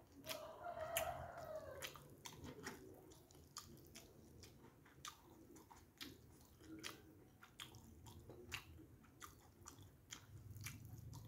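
Close-miked chewing of rice and fried tofu eaten by hand: faint, wet mouth clicks and smacks in an irregular run.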